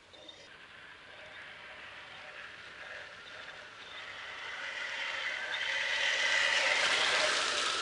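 Small electric motors of a 1:14.5 scale radio-controlled construction model whirring, growing steadily louder over several seconds.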